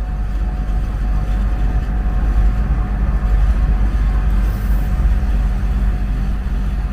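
Travel trailer air conditioner running with a steady low hum from its compressor and fan while it is charged with refrigerant.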